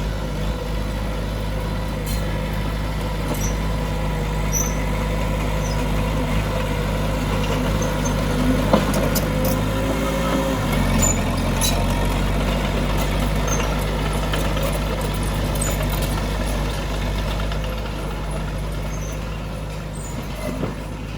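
Heavy earthmoving machine's diesel engine running steadily under load; its note shifts about halfway through. Scattered faint high clicks and squeaks ride over it.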